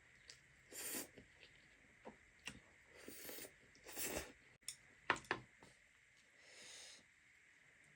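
Close-up eating sounds of a person slurping and chewing spicy buldak ramen noodles: a series of short wet sucking slurps, with a few sharp lip smacks a little after the middle.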